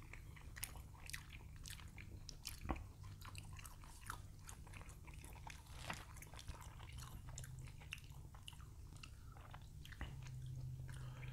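Faint mouth sounds of people chewing and eating, with many scattered soft clicks and smacks, over a low steady hum.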